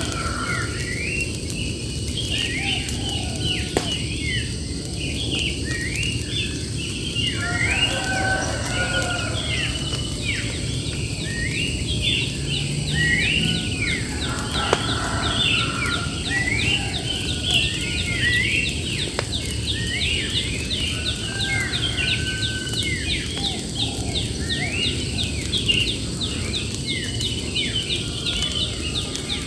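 Songbirds singing, with many quick chirps and sweeping whistled notes overlapping throughout, over a steady low background noise. From about halfway, a fast, high ticking trill joins in.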